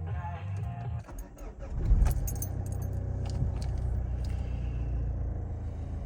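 Keys jangling, then the Mazda 6 diesel engine starts with a loud burst about two seconds in and settles into a steady idle.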